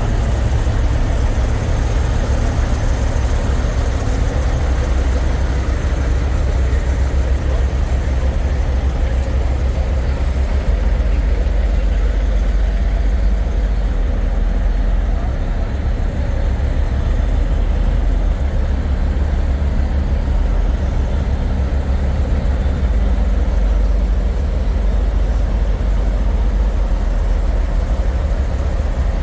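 Semi-truck diesel engines idling steadily, the sound heavy and low.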